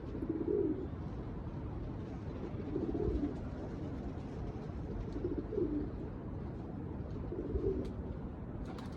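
A domestic pigeon cooing four times, about every two and a half seconds, over steady wind noise.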